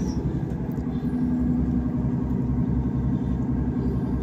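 Diesel passenger train heard from inside the carriage as it pulls away: a steady low engine drone with a held hum over a pulsing rumble.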